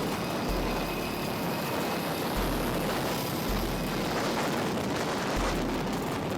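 Steady vehicle running noise, an even rushing sound without a clear engine note, with a deep low rumble that comes and goes every second or two.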